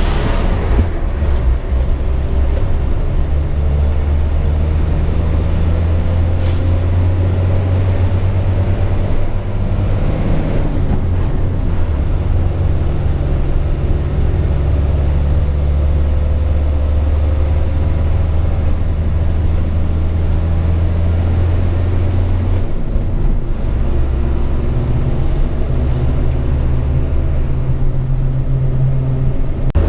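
Hino 500 FM 260 JD truck's six-cylinder turbo-diesel engine droning steadily while driving, heard from inside the cab. The drone breaks and changes pitch about ten seconds in and again about twenty-three seconds in, with a faint rising whine over the first ten seconds.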